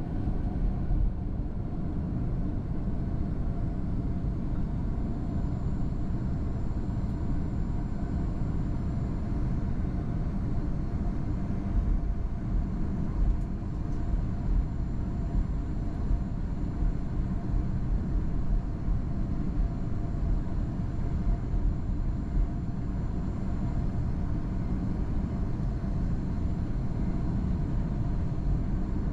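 Airbus A330-200 cabin noise: a steady low rumble of the jet's engines and airflow, heard from inside the passenger cabin, with faint steady tones above it.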